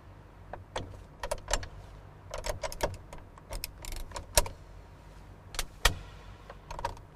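A string of irregular sharp clicks and knocks over a faint low steady hum, the two loudest about four and a half and six seconds in.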